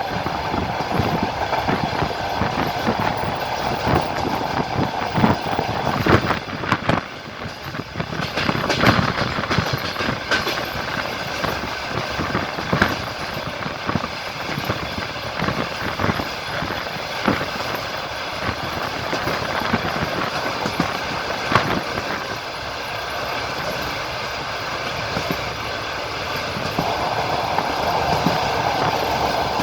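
Passenger train running on the rails, heard from inside the carriage: a steady rolling rumble with knocks of the wheels over rail joints. A hum sits over it for the first few seconds and again near the end.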